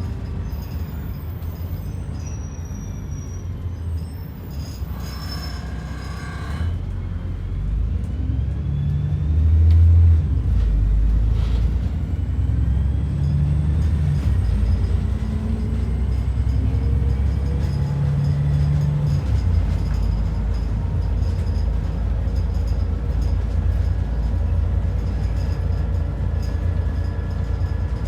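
ADL Enviro 400 double-decker bus heard from on board: a steady low engine and road rumble that grows louder from about seven to ten seconds in as the bus picks up speed, with a short burst of higher noise about five seconds in.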